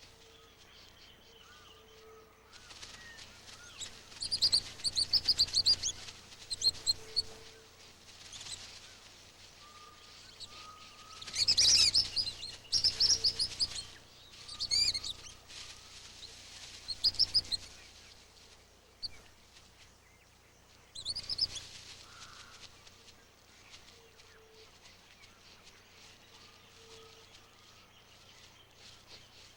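Coatis giving high-pitched chirping contact calls, in several bouts of rapid chirps with quieter pauses between.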